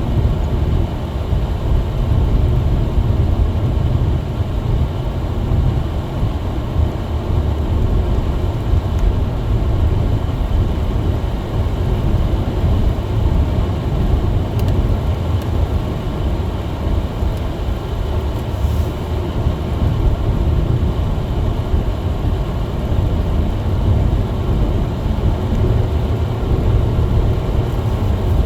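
Steady low rumble of a car on the move, heard from inside the cabin: engine and tyre noise on a snow-covered road.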